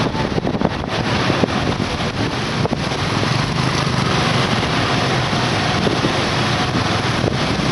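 Wind rushing over the microphone of a moving motorcycle, a steady loud noise, with the motorcycle's engine running underneath.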